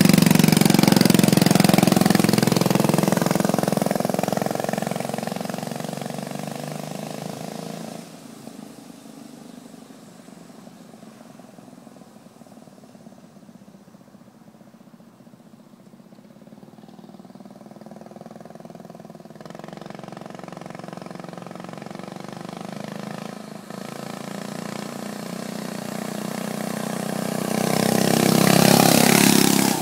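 Mini bike's small engine running as it is ridden away, fading into the distance, then coming back and passing close near the end with its pitch dropping as it goes by.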